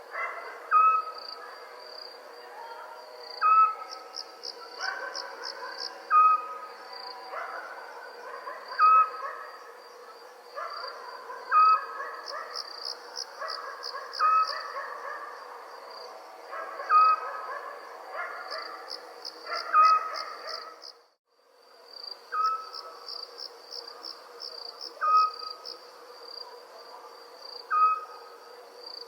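Night chorus of crickets chirping steadily in pulsing trills, with a short sharp call repeating about every three seconds. The whole chorus cuts out briefly about two-thirds of the way through, then resumes.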